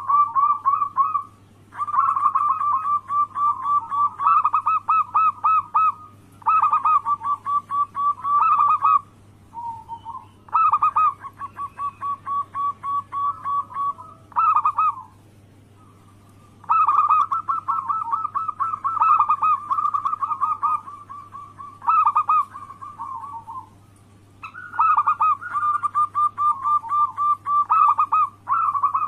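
Zebra dove (perkutut) cooing: repeated bouts of fast, rolling pulsed coos, each lasting a second to a few seconds, with short pauses between them. A steady low hum runs underneath.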